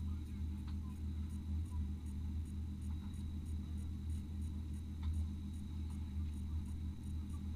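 Off-road race vehicle's engine running with a steady low rumble, heard from inside the cabin, with a faint steady high whine over it.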